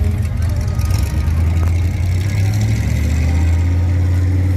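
Monster truck's Chevrolet V8 engine running steadily at a low speed, its pitch rising slightly about two seconds in.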